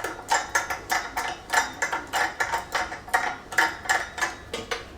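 Irregular metallic clicks and clinks, several a second, from tools and screws working on the sheet-metal fan cowling of a Fiat 500 engine as it is done up.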